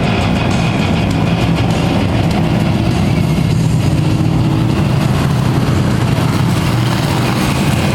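Engines of a field of Thunder Trucks (small race trucks) running steadily at pace speed under caution, a continuous low drone.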